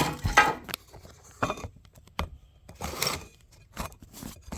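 Rustling and small clicks of parts and packaging being handled, in several short bursts.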